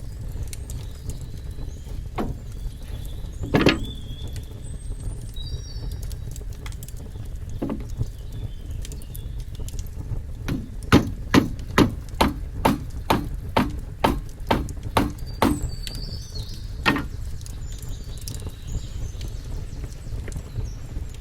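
A few scattered knocks, then a run of about a dozen even knocks at roughly two a second, with birds chirping.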